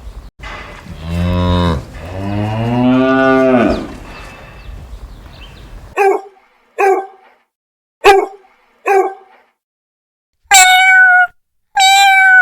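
A cow mooing twice in long, drawn-out calls. About six seconds in, a dog barks four times in short, sharp barks. Near the end, a cat meows twice.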